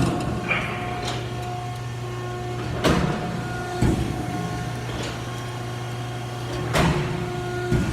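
Wysong H2510 power shear running with a steady motor hum, its blade coming down twice, about four seconds apart, on repeated test cuts of sheet metal, each stroke a loud sharp clank, with a lighter clunk shortly after the first.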